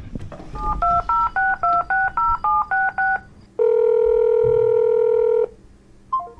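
Touch-tone telephone keypad dialing: about ten short two-tone beeps in quick succession, followed by one steady tone lasting about two seconds and a brief beep near the end.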